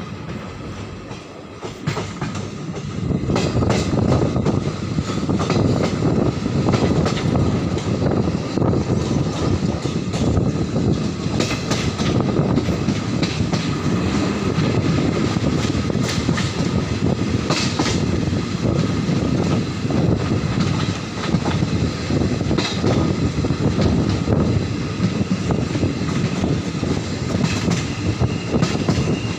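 Moving passenger train heard from an open coach doorway: a steady rumble and rattle of wheels on rails with air rushing past, louder from about three seconds in, with occasional sharp clacks over rail joints.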